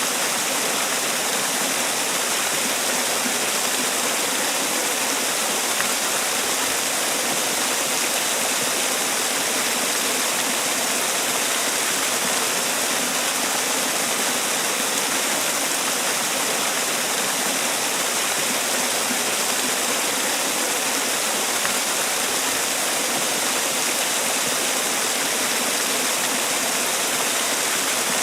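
Man-made waterfall: water falling and rushing in a steady, even hiss.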